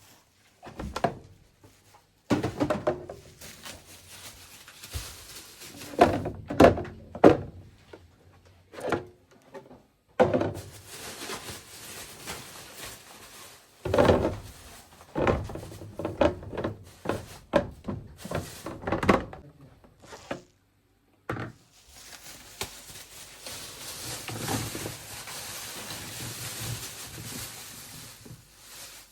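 Irregular thunks and knocks of objects being handled and set down, some with a short ring, then water running steadily from a tap for the last several seconds.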